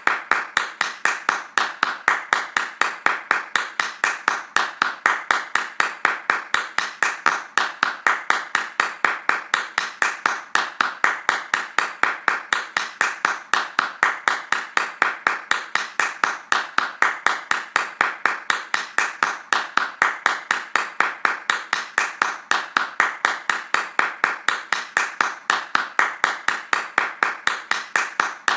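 Hands clapping fast in a steady, even rhythm, about four claps a second, without a break.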